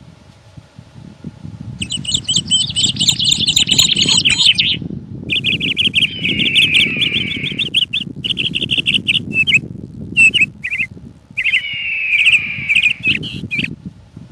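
A songbird singing a fast, chattering warble in three long phrases with short breaks between them, over a low rumble of wind.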